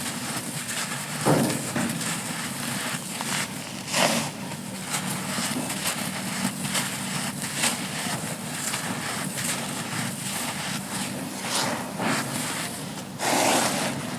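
Dry molded sand crumbling, a steady crisp crackle with louder crunches about a second in, around four seconds, and a longer one near the end.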